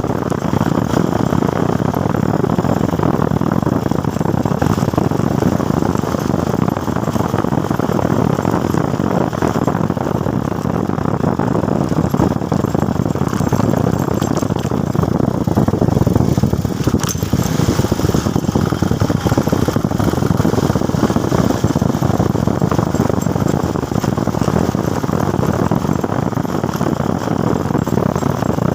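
Motorcycle riding at speed: a steady rush of wind and road noise over the engine, unchanging throughout.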